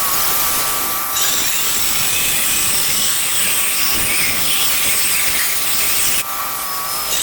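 Handheld power tool with a blade cutting into a ceramic patio tile: a steady whine over harsh grinding noise, easing off briefly about six seconds in and then biting again.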